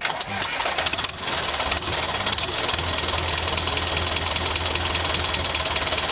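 Tractor engine running steadily, with a few clicks in the first two seconds.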